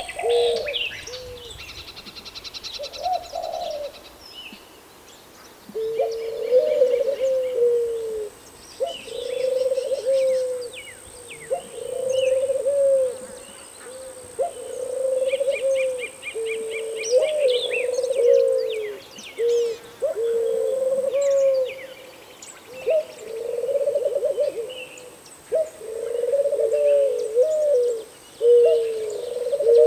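Doves cooing: short, low, falling coos one after another, several birds overlapping, with small birds chirping and trilling higher up.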